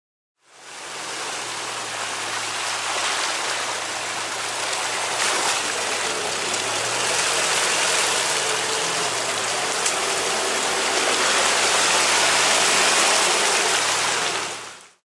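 Off-road jeep driving through muddy water: a steady wash of splashing, churning water over the low hum of its engine. It fades in at the start and fades out near the end.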